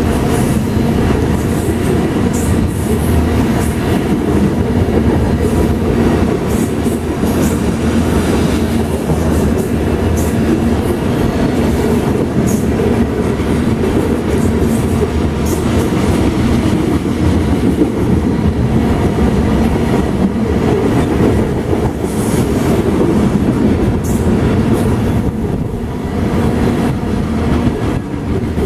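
Freight train of tank cars rolling past: a steady heavy rumble and clatter of steel wheels on rail, with brief high squeaks now and then.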